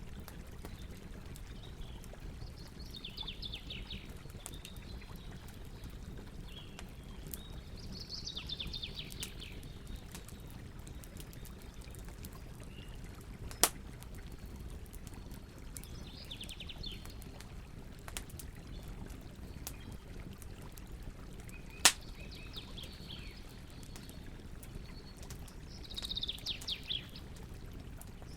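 Campfire crackling with a steady low hiss and many small clicks, and two loud sharp pops about halfway through and again two-thirds of the way in. Songbirds sing about five short trilled phrases.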